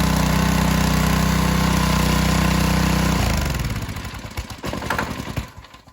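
BE gas pressure washer's small engine running steadily, then shut down about three seconds in by closing the choke rather than using the off switch. It sputters and coughs irregularly for about two seconds before dying.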